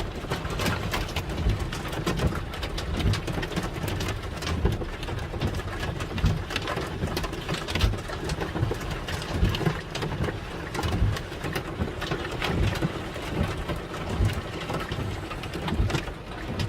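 Heavy rain and hail pelting a vehicle: a dense, irregular patter of hard hits with low thumps underneath.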